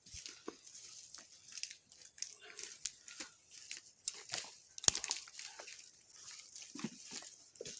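Dry grass and small twigs rustling and crackling in irregular bursts as tinder is handled and piled onto a newly caught fire, with a few sharp snaps.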